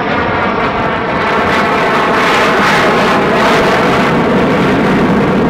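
CT-133 Silver Star jet trainer's Rolls-Royce Nene turbojet on a low display pass. The loud jet noise grows over the first second or two, then holds steady.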